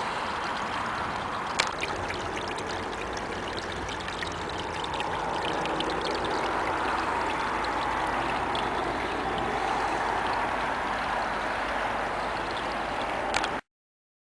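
Small waterfall of rainwater spilling off a saturated hillside, a steady splashing rush that grows a little louder about five seconds in. A sharp click comes about a second and a half in, another just before the sound cuts off abruptly near the end.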